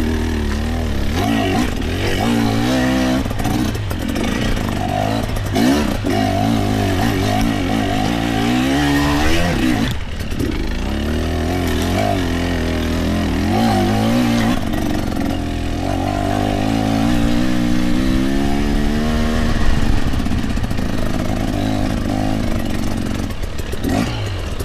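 Dirt bike engine under hard riding, revving up and down over and over, its pitch rising and falling every second or two as the throttle is worked.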